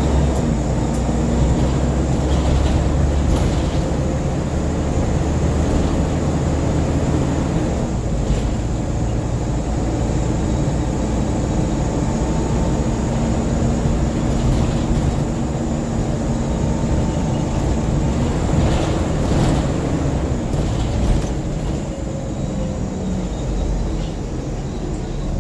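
Scania N94UB single-deck bus heard from inside the passenger saloon, its engine running steadily under way with road noise. A few short rattles and clicks come through along the way.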